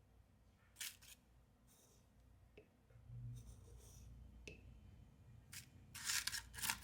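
Faint handling sounds in a quiet room: a few light clicks and taps, then a short run of scraping and rustling near the end.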